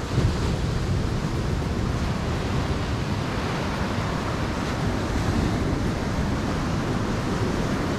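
Steady ocean surf washing on the beach, with wind buffeting the microphone.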